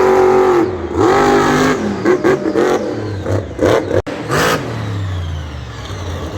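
Monster truck's supercharged V8 engine revving hard, its pitch climbing and dropping again and again as the throttle is worked, with an abrupt break about four seconds in.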